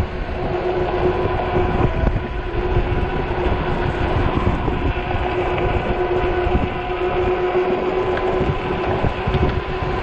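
Wind buffeting the microphone on a moving e-bike, a rumbling gusty noise, with a steady whine from the bike's electric hub motor that fades after about eight seconds.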